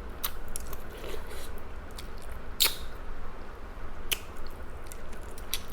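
Close mouth sounds of someone eating grilled chicken: soft wet chewing with a few sharp lip-smacking clicks scattered through.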